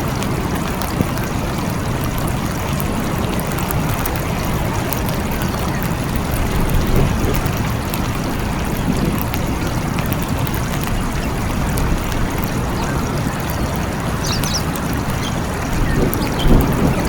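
Steady rain falling, with low thunder rumbling about seven seconds in and again near the end.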